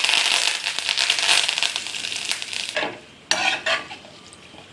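Fresh curry leaves dropped into hot oil in a frying pan, sizzling loudly and dying down after about three seconds. A short clatter of a utensil against the pan follows near the end.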